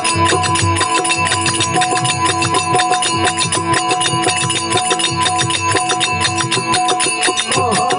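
Instrumental interlude of a Rajasthani folk devotional song (desi bhajan): steady held notes over a fast, even rhythm of sharp percussive strokes, with the singing voice coming back in near the end.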